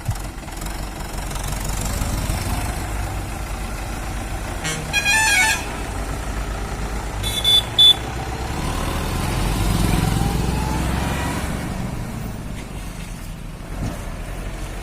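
Diesel tractor engine running steadily under load, with vehicle horns: one horn blast about five seconds in, then two short high-pitched toots a couple of seconds later.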